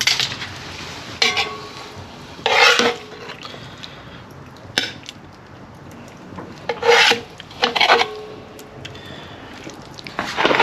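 Utensil scraping against a camp oven and plates in repeated short rasping strokes, a second or more apart, as the cooked duck and vegetables are served out.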